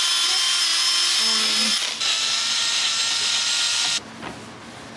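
Cordless drill spinning a sanding pad against a plastic headlight lens, a steady whine over a sanding hiss, in the sanding stage of a headlight restoration. It dips briefly near two seconds and stops about four seconds in.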